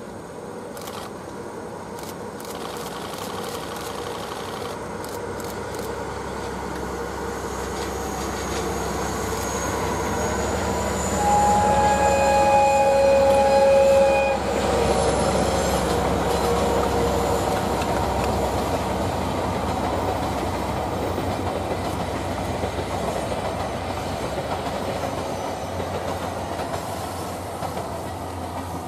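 DE10 diesel-hydraulic locomotive hauling seven 12-series passenger coaches, its engine and wheel clatter growing steadily louder as it comes off a steel truss bridge. About eleven seconds in it sounds its horn in one steady blast of about three seconds. The coaches then rumble and clatter past and fade slowly.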